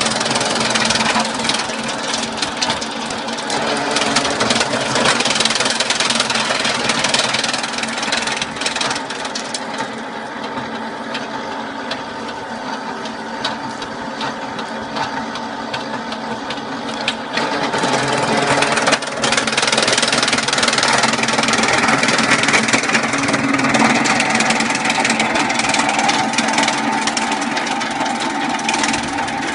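High-speed chaff cutter running as a wood shredder, its blades chopping wood fed into it: a steady machine hum under a continuous rapid crackle of cutting. The chopping thins out for several seconds midway, then picks up again and gets louder.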